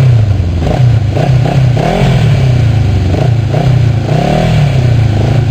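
Motorcycle engine running and being revved, its pitch rising and falling back twice.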